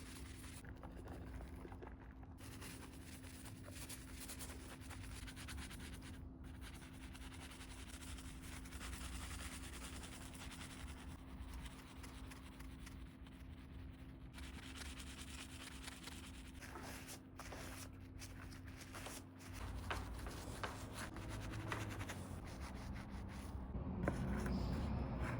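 Steady rubbing and scrubbing on a silver ladle as it is cleaned and polished, getting louder near the end, over a faint steady hum.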